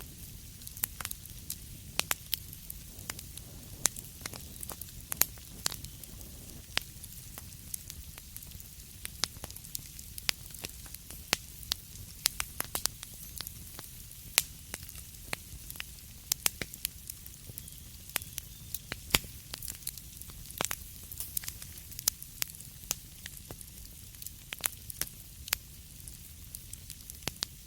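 Wood fire crackling in a fireplace: irregular sharp pops and snaps over a steady low rumble and a faint hiss.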